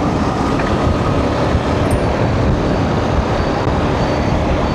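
Steady rush of wind on the microphone and road noise from a motorcycle riding in highway traffic.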